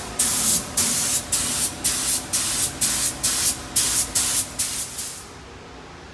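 Paint being sprayed in short hissing bursts, about two a second, that stop about five seconds in.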